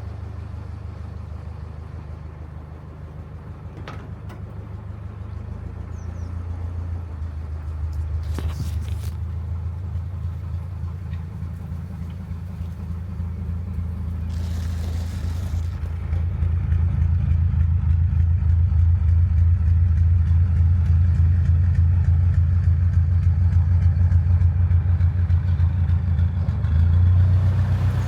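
Narrowboat engine running with a steady, low, evenly pulsing thrum, getting louder from about halfway through.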